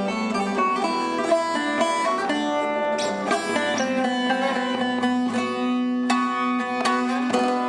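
Bağlama (saz) playing an Anatolian folk melody: quick plucked notes over a steady low note that sounds throughout.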